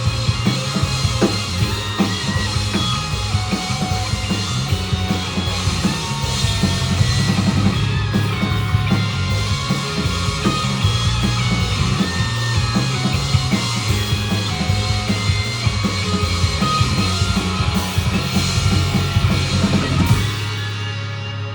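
Live rock band playing with a full drum kit, bass and guitars, the drums hitting densely. About twenty seconds in, the drumming stops and a held low chord rings on.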